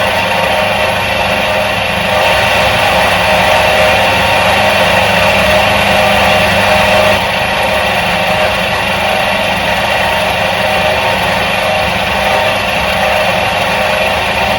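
Electric motor of a 1977 Soviet washing machine running with a steady hum and whir. About seven seconds in, the low part of the hum drops a little.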